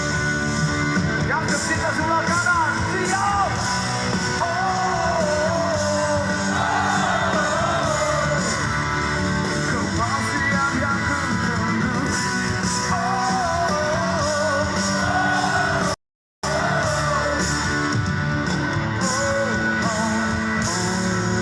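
Rock band playing live, a singer's melody over guitars, bass and drums. The sound cuts out completely for about half a second near the end, then comes back.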